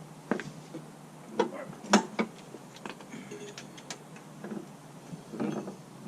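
Irregular light clicks and knocks of small metal parts and tools being handled, a dozen or so, the sharpest about two seconds in.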